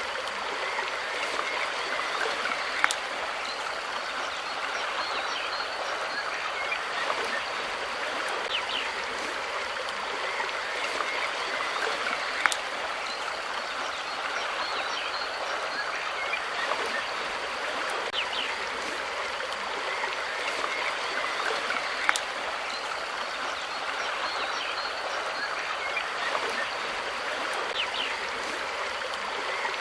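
Steady running water of a stream, with faint short high chirps and a few sharp clicks about ten seconds apart.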